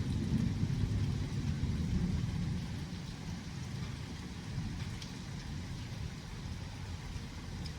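Thunder rolling in a low rumble that is loudest over the first couple of seconds and then eases off, over the steady hiss of rain.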